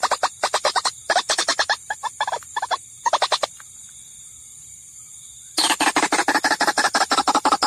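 White-breasted waterhen (ruak-ruak) calls played as a bird-lure track: a fast run of short repeated notes, several a second. It breaks off about halfway through and starts again after a pause of about two seconds near the end.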